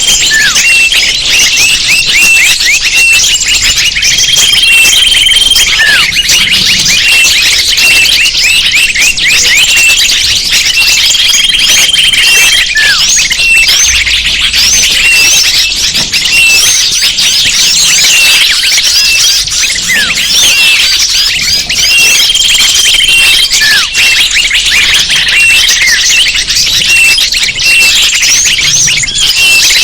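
Bird-lure recording: a dense, nonstop chorus of high, overlapping chirps and twitters from many small birds, with a short steady whistled note coming back every several seconds.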